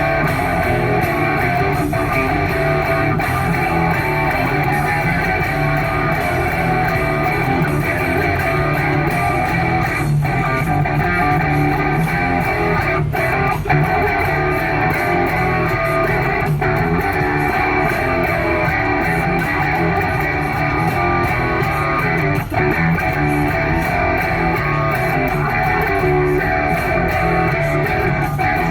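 Electric guitar being played, unbroken for the whole stretch.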